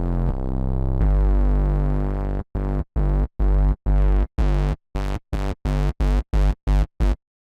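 Electro house synth bass holding a low sustained sound, then chopped into a stuttering run of sliced, gated hits that get shorter and come faster, cutting off a little before the end.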